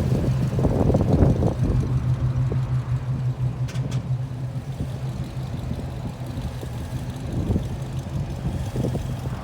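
A car engine running steadily at one even pitch, with wind buffeting the microphone.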